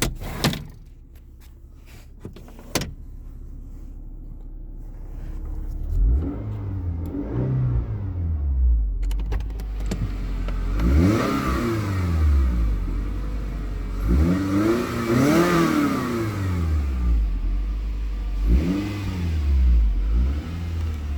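2011 Scion tC's 2.5-litre four-cylinder engine, warmed up, idling and then revved four times through its exhaust, the pitch climbing and falling back with each blip. Two sharp clicks come in the first few seconds.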